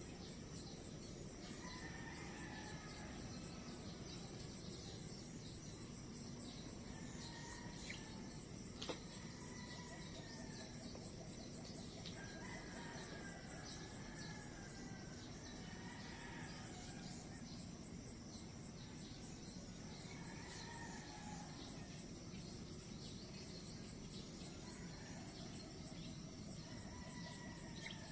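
Birds calling again and again in short arching calls over a steady, high chirring of insects. One sharp click comes about nine seconds in.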